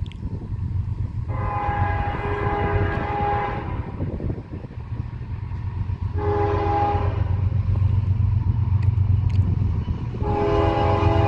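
Freight train's diesel locomotive air horn sounding a multi-tone chord in separate blasts: a long one about a second in, a short one a little past the middle, and another long one starting near the end, over the steady rumble of the locomotive.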